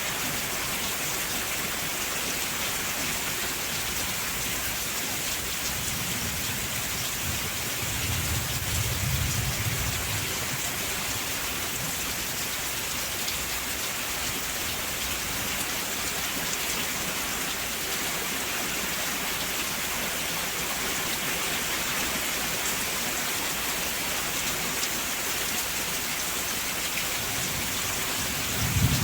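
Steady rain falling, an even hiss of drops, with a low rumble swelling and fading about six to ten seconds in and a short low thump near the end.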